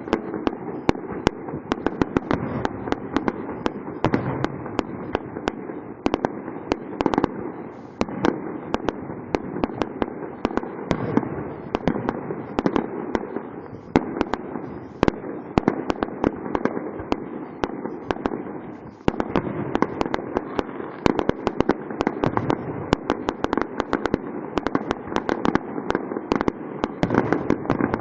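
Fireworks going off: a dense, unbroken run of sharp pops and cracks, several a second, over a steady background of noise.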